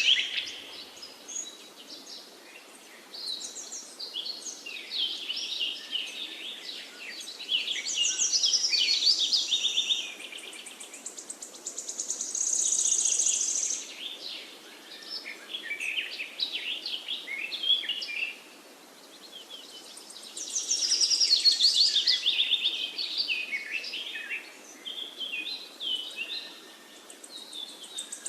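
Several songbirds chirping and trilling over one another in short phrases of a few seconds, with brief pauses between, over a steady faint hiss of outdoor background.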